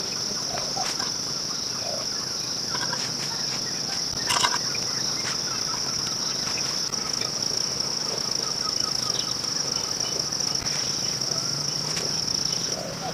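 Crickets trilling in a steady high-pitched chorus that cuts off near the end, with a single sharp knock about four seconds in.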